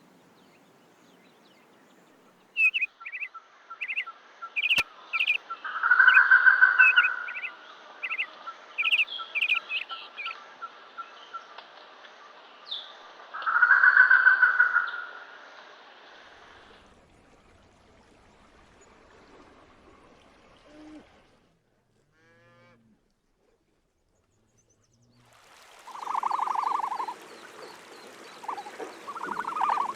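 Animal calls: a run of short, high chirps with two longer, louder calls about seven seconds apart. A few seconds of near silence follow, then a new set of calls starts near the end.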